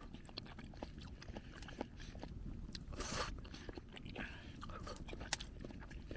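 A person chewing and eating a mouthful of soft simmered new onion, with small clicks and a brief rustle about three seconds in.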